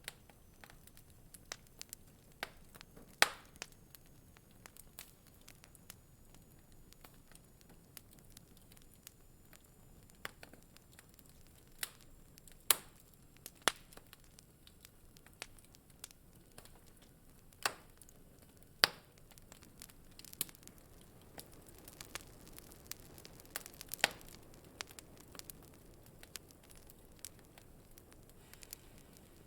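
Wood fire in a fireplace crackling: irregular sharp pops and snaps over a faint low hiss, with a handful of louder snaps scattered through.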